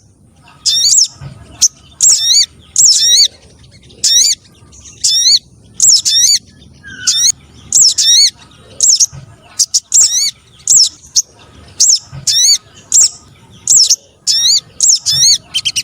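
Recorded calls of sogon birds (small sunbirds and spiderhunters) played as a trapping lure: short, loud, high-pitched calls of quick looping notes, repeated about once or twice a second.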